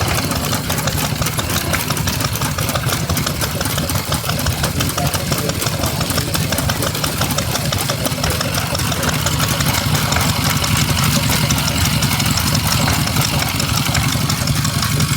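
Stationary engines running steadily, a little louder in the second half.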